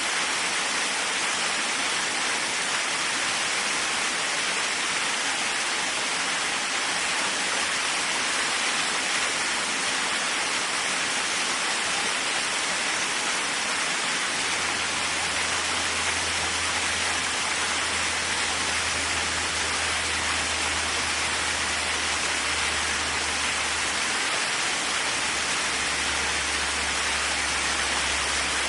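Waterfall: a steady, even rush of falling water, bright and hissy. A faint low hum comes in about halfway through.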